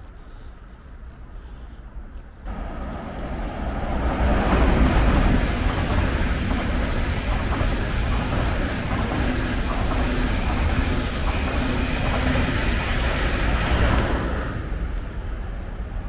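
SBB double-deck passenger train running along the station platform: a steady rumble of wheels on rails. It comes in suddenly a couple of seconds in, swells and holds steady, then fades near the end.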